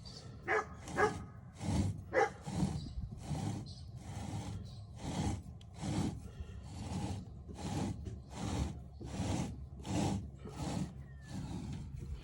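Rhythmic scraping or rubbing strokes, a little more than one a second, with a few short squeals in the first two seconds.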